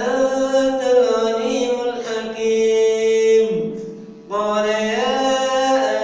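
Male voice reciting the Quran in melodic tajweed style, with long drawn-out held notes that bend slowly in pitch. The voice breaks off for a breath about four seconds in, then resumes with another sustained phrase.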